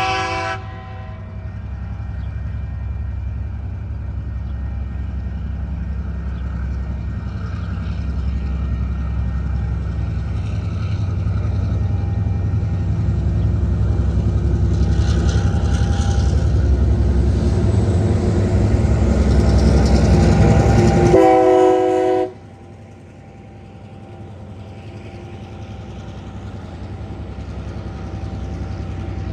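Diesel-electric freight locomotives approaching and passing, their engines rumbling ever louder, with a short horn chord at the start and a second horn blast about 21 seconds in. Right after the second blast the level drops suddenly to a quieter, steady rumble.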